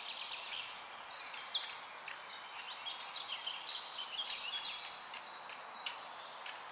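Several songbirds chirping and trilling, with a quick falling note about a second in, over a faint steady hiss.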